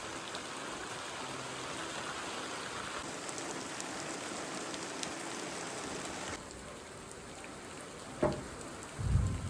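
Heavy rain falling steadily. About six seconds in it drops to a softer patter; near the end there is a sharp knock, then a loud low rumble.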